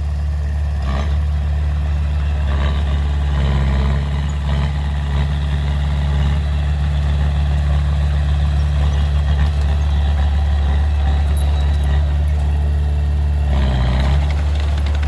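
Heavy diesel engine of a dump truck or excavator running steadily with a low, even rumble. Near the end there is a brief rise in noise.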